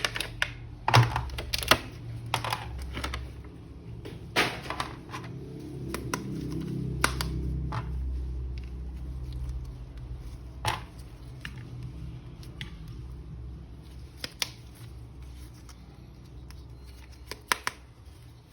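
Irregular sharp plastic clicks and taps from toy action figures and their packaging being handled, over a steady low hum. The clicks come thickest in the first few seconds, with a lone louder one about eleven seconds in.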